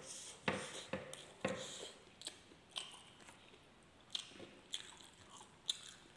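A man chewing a mouthful of rice and spicy milkfish sisig: short wet smacking clicks, about two a second at first, then more scattered.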